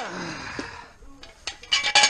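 Metal jack stands being picked up and handled: a sharp metal clank with a ringing tail, then a quick clatter of metal knocks near the end.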